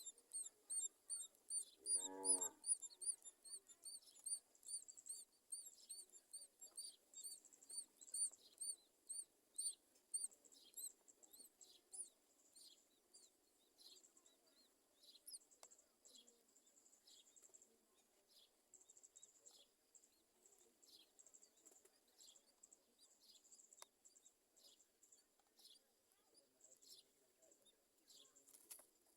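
Myna nestlings cheeping in the nest: a quick, even series of short high chirps, about three a second, that grows sparser about halfway through. A short lower call rings out once, about two seconds in.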